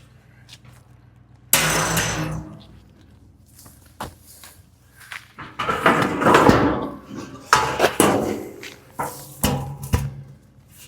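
A series of loud knocks, bangs and clattering, the longest lasting over a second in the middle, over a steady low hum.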